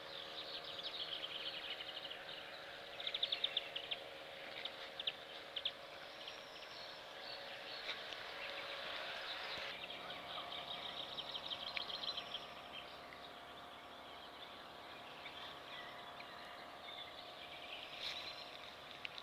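Small birds chirping in quick trills and twitters that come in several bursts, over a steady low hum.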